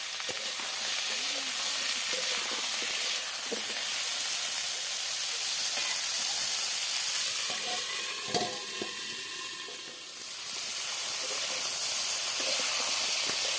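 Food frying in hot oil in a pan, a steady sizzle, with a single knock about eight seconds in and a brief dip in the sizzle just after.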